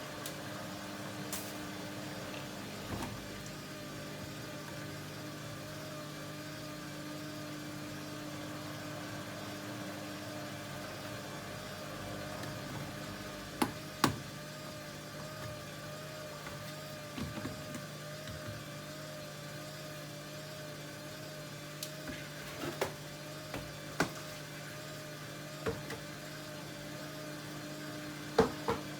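Hoover Dynamic Next front-loading washing machine running on its Rapid 14-minute programme: a steady motor hum with a higher tone that wavers evenly, and short sharp knocks here and there from about halfway on.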